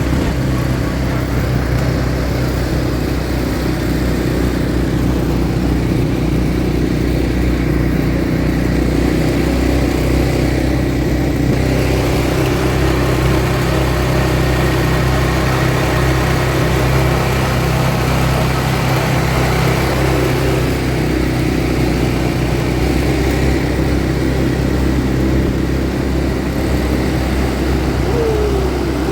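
ATV engine running steadily, its pitch drifting slightly, with a short falling whine near the end.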